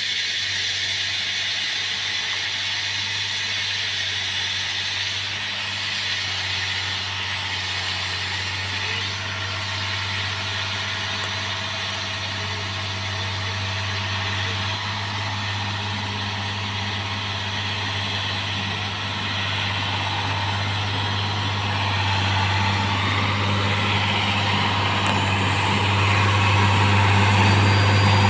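Diesel engine of a railway track-renewal machine running steadily with a low drone, getting louder over the last few seconds.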